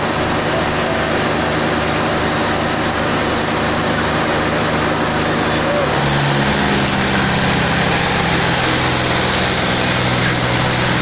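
Tractor diesel engine running hard under load, with a steady pulling note that shifts and grows stronger about six seconds in.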